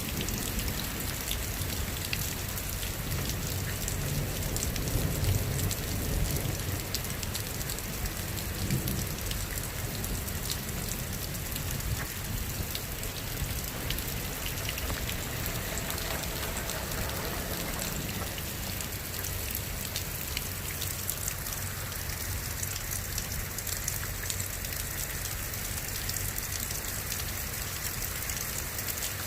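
Steady rain falling and spattering on surfaces, with many small drop impacts. A low rumble swells between about four and nine seconds in.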